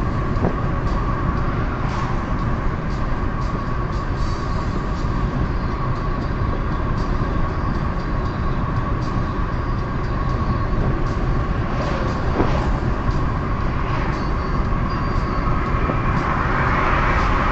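Car driving on a highway: steady rumble of tyres and engine, with a few faint knocks now and then.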